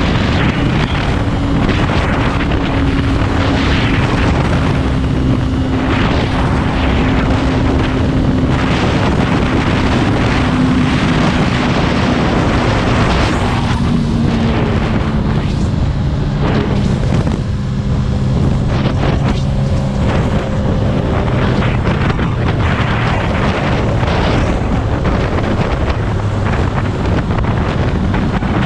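Motorcycle under way at speed: heavy wind noise on the microphone over a steady engine drone whose pitch sinks slowly through the first half.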